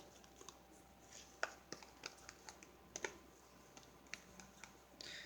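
Faint, irregular clicks and taps of a fork stirring shaving cream into glue in a cup while mixing fluffy slime.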